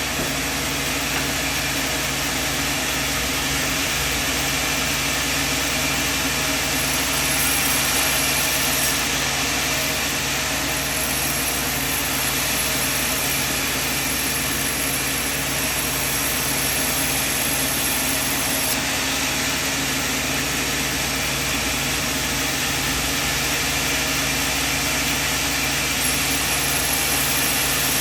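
Sawmill machinery running steadily with a constant engine-like hum and a steady high whine, without starts, stops or knocks.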